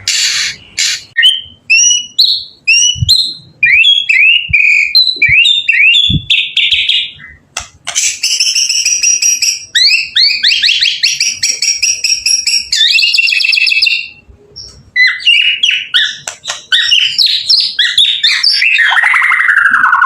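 White-rumped shama (murai batu) singing a loud, varied song of quick slurred whistles, chirps and rapid rattling trills, broken by two brief pauses.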